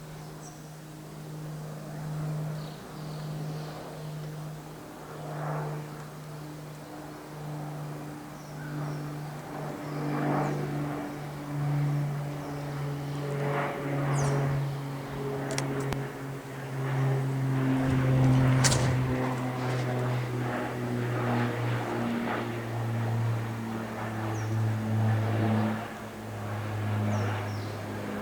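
Cessna 402C twin-engine piston airplane droning as it flies over. The propeller hum pulses in level, grows loudest about two-thirds of the way through, and slowly drops in pitch as it passes. Faint bird chirps come now and then.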